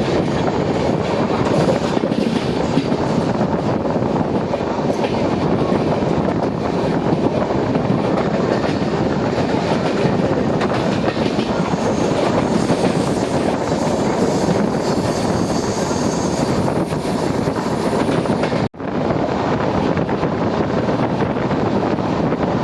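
Passenger express train running at speed: a steady, loud rumble of wheels on the track. The sound cuts out for an instant about 19 seconds in, then carries on.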